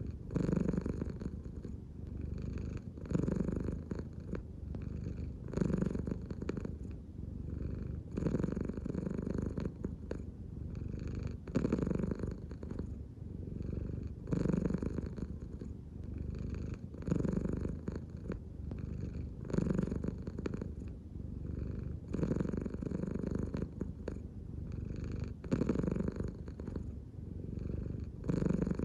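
American Shorthair cat purring steadily, the purr swelling louder with each breath roughly every two and a half to three seconds.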